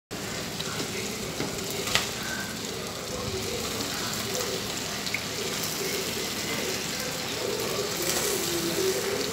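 Vegetables sizzling in a hot pot of sautéed onion and tomato as they are tipped in and stirred: a steady hiss, with one sharp click about two seconds in.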